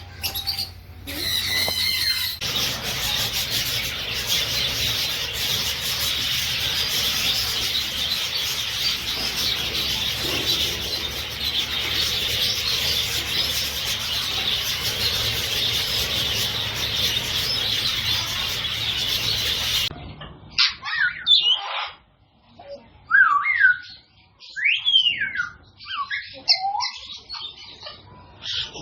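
A dense, steady chatter of many small parrots calling at once. About twenty seconds in it cuts abruptly to separate sharp parrot calls and squawks that sweep up and down in pitch.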